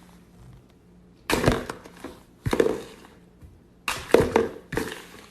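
A handful of sharp knocks or thumps at uneven intervals, each dying away quickly, over a faint background.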